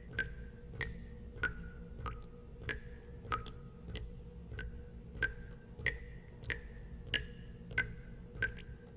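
Water drops falling one at a time into water at a steady pace, about three every two seconds. Each is a short plink at a slightly different pitch, over a low steady background rumble.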